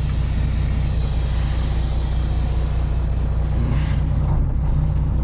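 Semi truck's diesel engine running steadily at low speed while the truck backs slowly into a loading dock.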